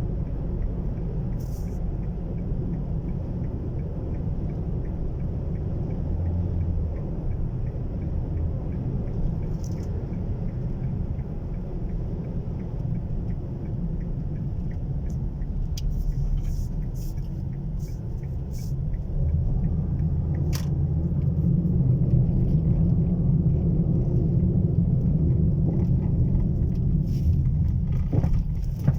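Low, steady rumble of a car on the move, growing louder about two-thirds of the way through, with a few faint clicks.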